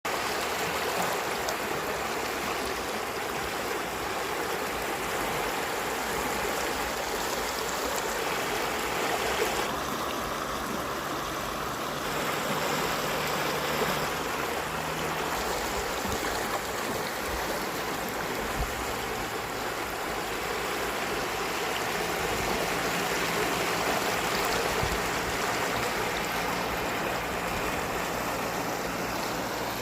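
Floodwater rushing and churning in a steady torrent, with a faint low hum coming and going.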